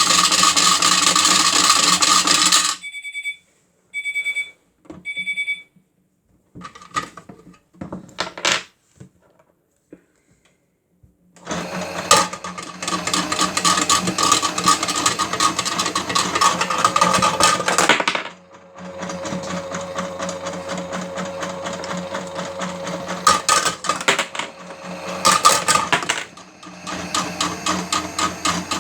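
Toy Miele W1 washing machine spinning with batteries rattling loudly in its drum, stopping after about three seconds. Three short electronic beeps from the toy follow, then a few clicks and a pause. About twelve seconds in the drum starts again with heavy rattling; later a steady motor hum runs under lighter knocking before the rattling picks up once more.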